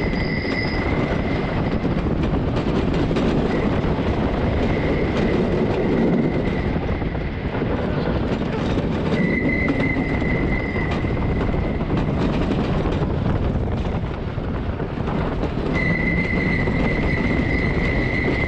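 Tonnerre de Zeus wooden roller coaster train running along its wooden track: a continuous loud rumble with scattered knocks, and a high wheel squeal that comes and goes, at the start, in the middle and again near the end.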